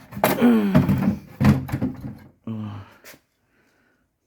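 Knocks and clunks from the parts of a dismantled washing machine being handled, three sharp ones about a second apart, mixed with a man's voice.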